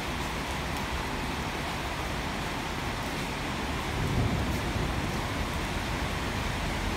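Steady hiss of rain falling on a roof and wet concrete, with a brief low rumble about four seconds in.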